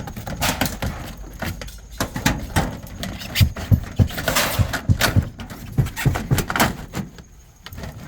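Aluminum siding and an aluminum corner piece being handled and knocked into place: irregular sharp knocks and light metallic clattering, with a rustling scrape around the middle.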